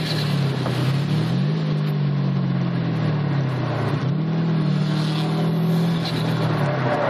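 2010 Subaru WRX's turbocharged 2.5-litre flat-four engine heard from inside the cabin while lapping a race track, with steady wind and road noise. The revs rise about a second and a half in, ease off over the next couple of seconds, jump back up about four seconds in, and hold there.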